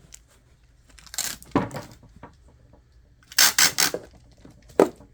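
Packing tape being pulled off the roll in loud, short ripping pulls: a couple about a second in, a longer run around three and a half seconds in, and one brief pull near the end.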